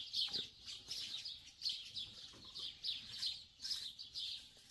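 Small birds chirping in trees, a steady run of short, high chirps repeating several times a second.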